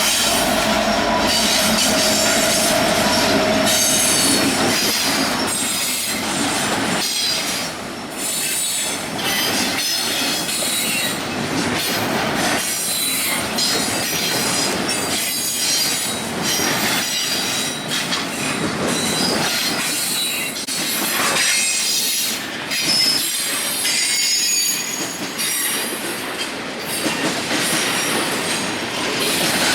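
Freight train cars rolling past, with wheels knocking over rail joints and flanges giving off high-pitched squeals.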